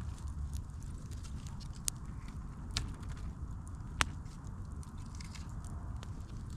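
Campfire crackling: scattered sharp pops and snaps, the loudest about four seconds in, over a steady low rumble.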